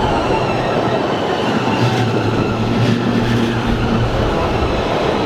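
Electric narrow-gauge train on the Bernina line running along the track, a steady rolling noise with wheel clatter and a faint high wheel squeal. A low hum comes in about two seconds in and fades out near four seconds.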